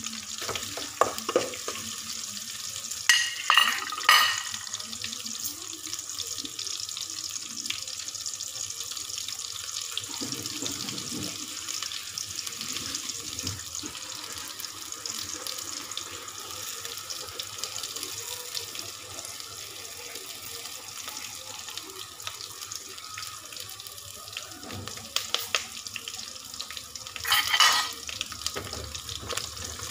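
Sliced onions and ginger sizzling steadily in hot oil in a large aluminium pot. A few sharp clacks come about three to four seconds in and again near the end.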